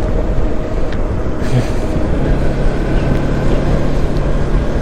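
Motorcycle running at road speed, its engine heard under a steady low wind rumble on the microphone; a steady low engine note comes up about two seconds in.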